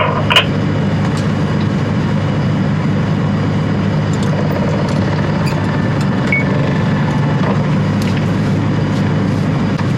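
Mercedes Sprinter van's engine running steadily, heard from inside the cab, with a sharp click just after the start.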